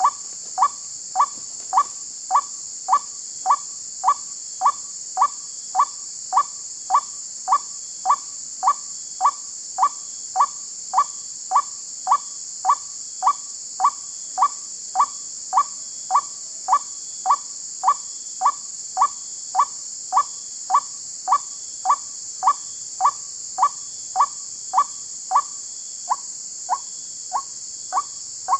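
White-breasted waterhen (ruak-ruak) calling: one short 'ruak' note repeated at a steady pace, nearly two a second, a little weaker near the end. A steady high-pitched hiss runs underneath.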